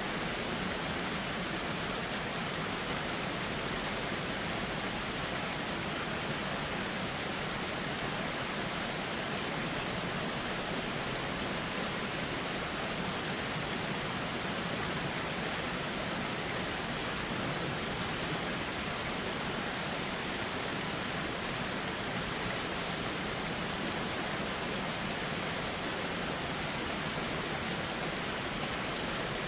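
Calm river water flowing steadily: an even, unbroken rushing that never changes in level.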